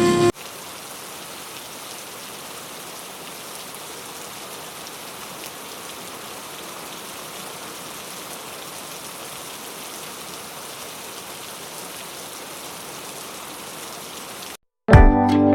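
Steady rain falling, an even hiss of drops with no rhythm. A moment of music cuts off just after the start, and guitar music starts abruptly near the end.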